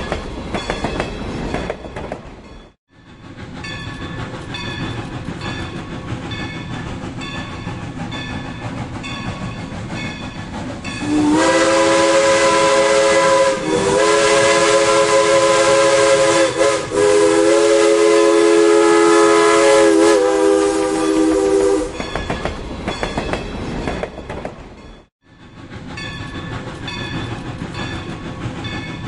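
Steam train running, with a steady rumble and clatter. About a third of the way in, its whistle sounds a loud chord of several notes for about ten seconds, broken twice briefly. The sound cuts out for a moment twice, once early and once near the end.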